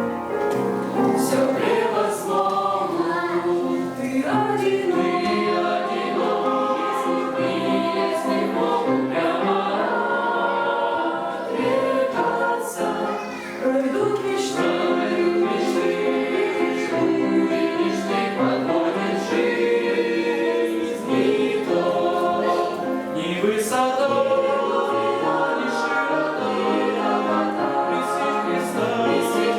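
Choral singing: several voices singing together in sustained harmony, with a short pause about thirteen seconds in.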